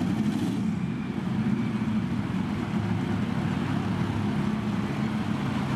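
A truck engine idling steadily at one low pitch, with no revving.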